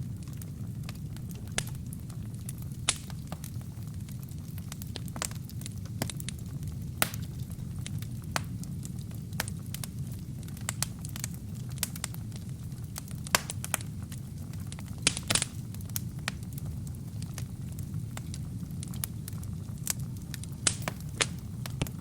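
Wood fire burning in a fireplace: a steady low rumble of the flames with irregular sharp crackles and pops from the burning logs, a few louder pops scattered through.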